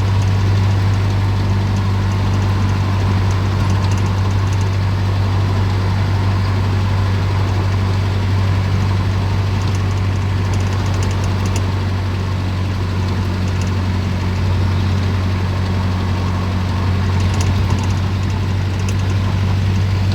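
A vehicle's engine running steadily: a constant low drone that holds at an even level.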